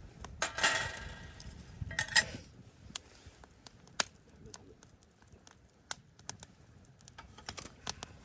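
Wood campfire crackling, with irregular sharp pops and snaps scattered through. Two brief louder rustling bursts come about half a second in and again about two seconds in.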